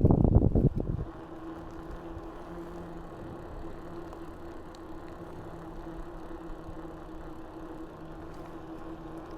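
Wind buffeting the action camera's microphone, cutting off about a second in, leaving a steady low hum with a faint constant tone.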